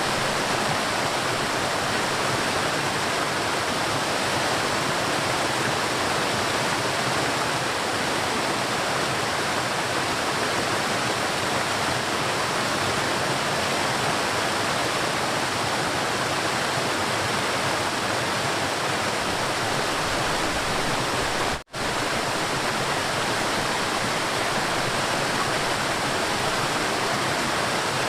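River water flowing and rushing steadily. A split-second break in the sound about three quarters of the way through.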